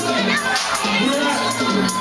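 Club crowd cheering and shouting over a hip-hop beat with regular drum hits.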